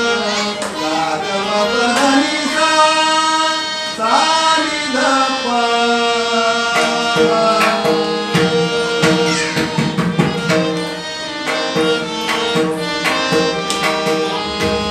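Marathi devotional bhajan: a voice singing long, gliding phrases over sustained instrumental notes, accompanied by tabla. The tabla strokes become quicker and denser about halfway through.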